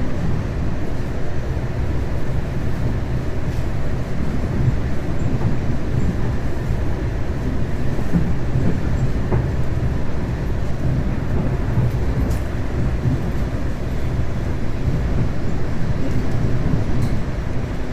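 Moving passenger train heard from inside the car: a steady low rumble of wheels on the rails with the odd faint tick.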